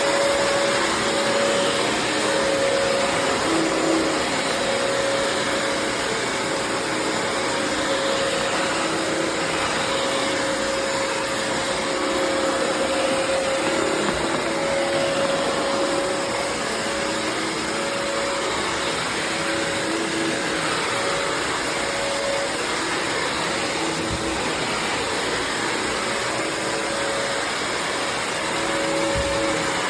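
Bissell CrossWave HydroSteam wet-dry floor cleaner running steadily as it vacuums and mops a dirty floor, its motor giving a steady whine over the rush of suction.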